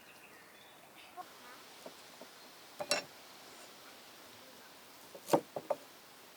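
Faint background with a few short, sharp knocks: one about three seconds in, then three in quick succession near the end.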